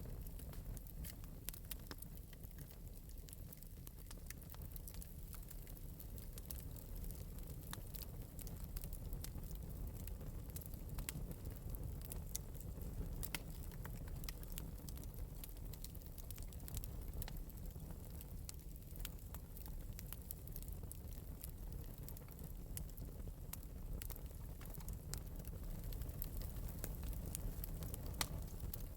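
Wood fire burning steadily in an open metal fireplace, with light, irregular crackles and pops over a low, even rumble of flame.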